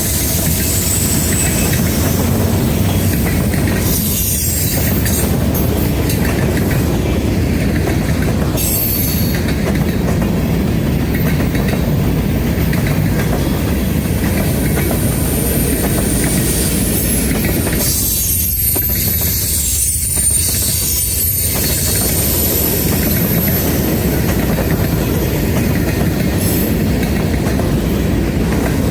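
Norfolk Southern freight train rolling past steadily, its wheels clicking over the rail joints, with a thin high-pitched wheel squeal on and off.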